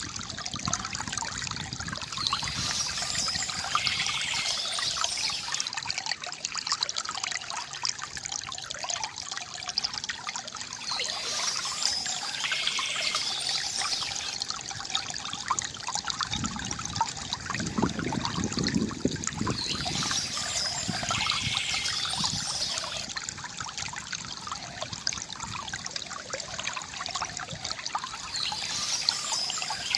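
Water from a bamboo fountain trickling and splashing steadily into a basin, with a brighter splashing that swells about every nine seconds and a deeper gurgle a little past halfway.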